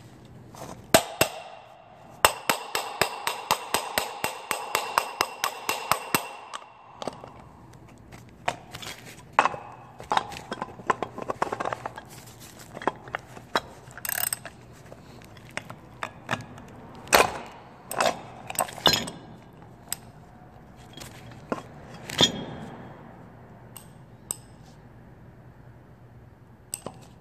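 Metal hand tools clinking and knocking against the old plastic oil filter housing from the Lexus ES 300h as it is being forced apart to free a stuck drain plug. A quick run of even clicks lasts a few seconds early on, then scattered single knocks and clinks follow.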